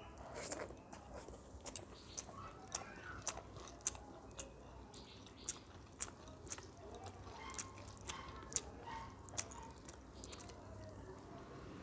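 Close-miked eating of rice with spicy chicken curry: chewing, with many sharp wet mouth smacks and clicks at irregular moments.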